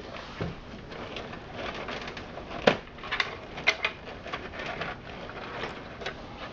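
Handling noise from taking apart a desktop computer: plastic parts and cables rustling and clicking. There is a sharp click about two and a half seconds in and a few more about a second later.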